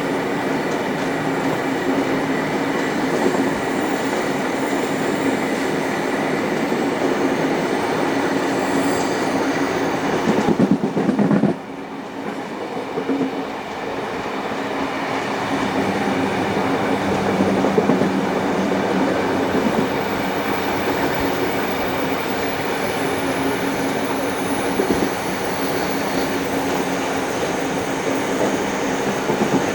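Train hauled by steam locomotive 3801 running along the rails, heard from the train: a steady rumble of wheels and track. About ten seconds in it grows louder, then drops off suddenly and builds back up over a few seconds.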